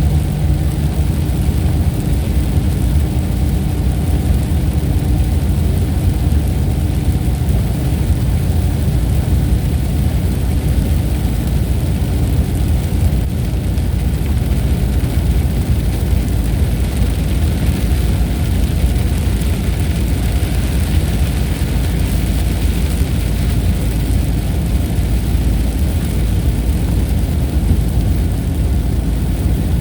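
A steady, loud, deep rumbling noise with no distinct claps or breaks.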